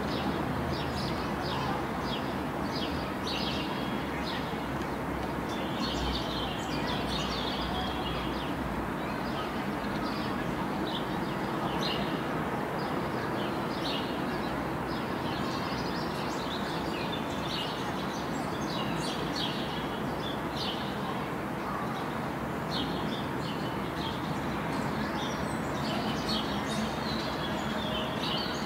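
Several birds chirping and singing, a dense run of short, high calls over steady outdoor background noise.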